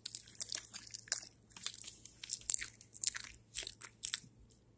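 Close-up chewing and crunching mouth sounds, many quick irregular crunches, going with a doll being made to eat a marshmallow.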